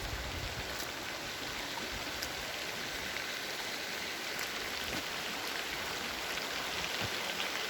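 Floodwater rushing in a swollen river: a steady, even rush of water.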